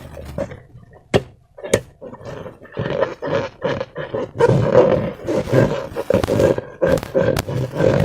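Slime and rubber balloons being handled and squished, an irregular run of wet squelching and rubbery rubbing, with a few sharp clicks about a second in, near two seconds, and again near the end.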